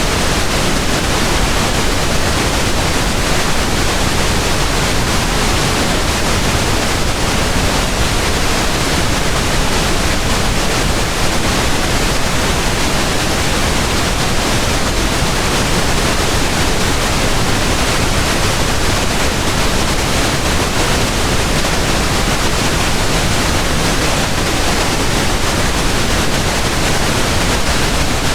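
Pink noise: a steady, even hiss with no changes, fuller in the low end than white noise.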